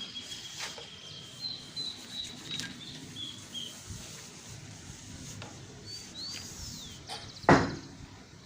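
Birds chirping and whistling: a run of high, thin held notes, then a few short falling chirps, with scattered small clicks and one loud thump about seven and a half seconds in.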